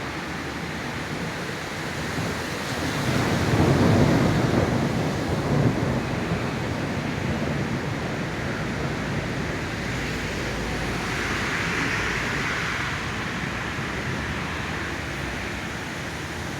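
Steady rush of a thunderstorm's wind and rain. A louder low rumble swells about three seconds in and eases off by about six seconds.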